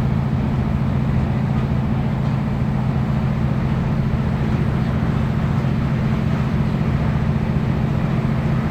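Class 156 Super Sprinter diesel multiple unit's underfloor Cummins diesel engine running steadily under way, heard from on board as a loud, even low drone over the rumble of the train in motion.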